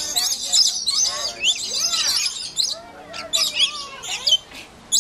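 Many birds chirping and twittering at once: a dense run of high-pitched overlapping chirps.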